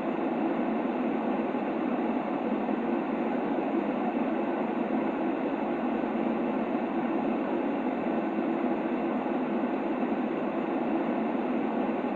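Steady white-noise track for soothing a baby: an even, unchanging rushing hiss, deeper than pure white noise, with most of its weight in the low-middle range and little top end.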